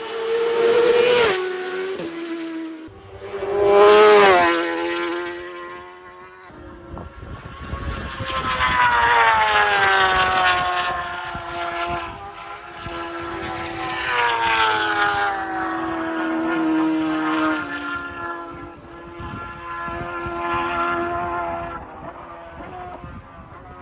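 Superbike racing motorcycles passing at speed: two quick passes about one and four seconds in, each engine note rising then dropping as it goes by. After that comes a longer spell of engine sound rising and falling as the bikes carry on up the road, fading near the end.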